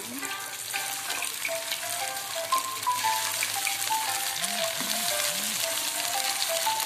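Breaded chicken nuggets deep-frying in very hot oil: a steady crackling sizzle, with background music playing a melody over it.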